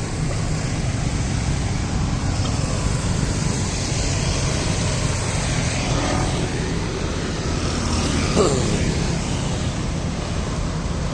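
Steady rumble of road traffic passing on a city street, with a brief higher sound about eight seconds in.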